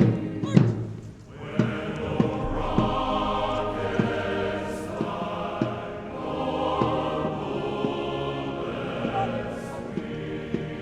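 Slow military band music in sustained, full chords, with short sharp knocks scattered through it.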